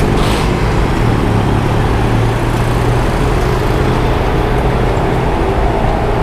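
Steady city street traffic noise, with the low hum of a vehicle engine running close by.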